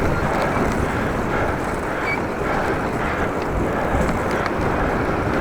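Strong gusty wind rushing over the microphone of a moving bicycle: a steady, dense roar with no distinct events.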